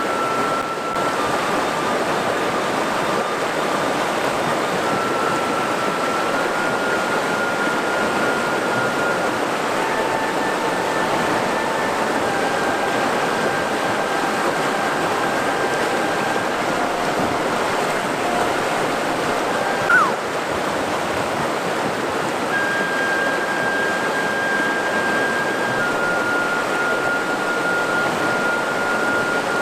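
Mountain river water rushing steadily over rocks. Faint long held tones step to a new pitch every few seconds, and a brief louder sound with a falling pitch comes about two-thirds of the way through.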